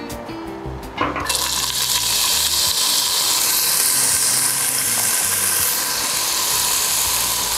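Sliced leek and chopped garlic sizzling in hot olive oil in a stainless steel pot. The sizzle starts suddenly about a second in, as the vegetables hit the oil, then runs as a steady hiss.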